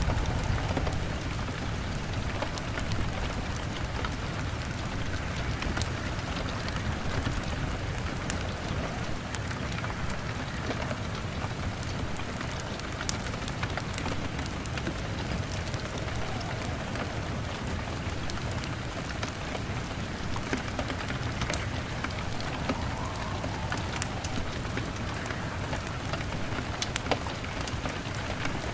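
Steady rain on a window glass, mixed with a crackling fire giving scattered sharp pops and clicks.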